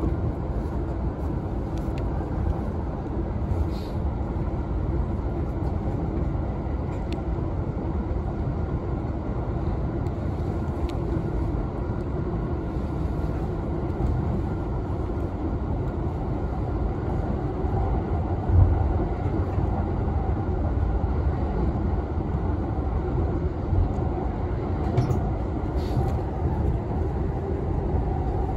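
JR Chūō-Sōbu Line commuter train running at speed, a steady rolling rumble heard from inside the car, with a few light clicks from the wheels and track and one heavier knock about two-thirds of the way through.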